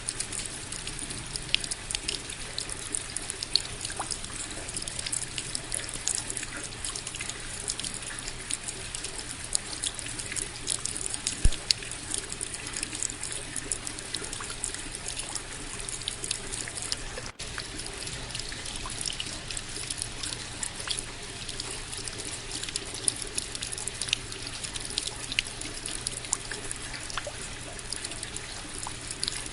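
Steady rain falling, many separate drops ticking sharply over an even hiss, with a momentary break in the sound about 17 seconds in.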